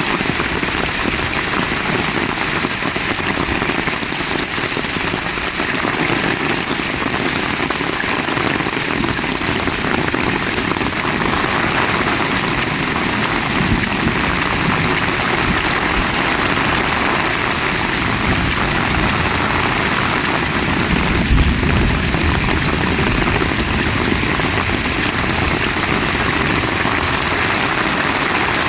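Heavy rain falling steadily in a loud, even hiss. A low rumble swells briefly about two-thirds of the way through.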